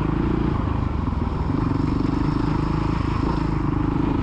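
Small dirt bike engine running at steady revs under held throttle.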